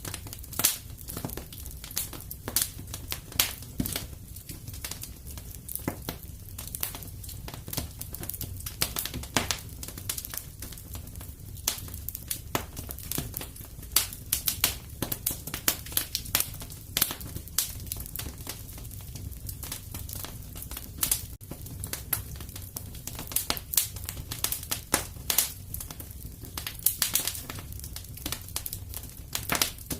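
Wood fire in a fireplace crackling, with dense, irregular sharp pops and snaps over a steady low rumble.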